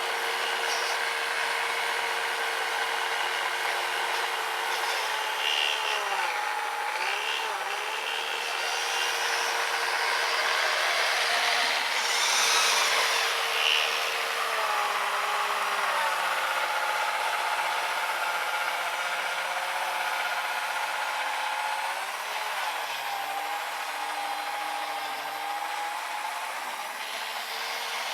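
Small brushed 550 electric motor of an RC snowblower running steadily with a whine. Its pitch sags and recovers a few times, around a quarter, half and three-quarters of the way through, as the auger loads up in powder snow.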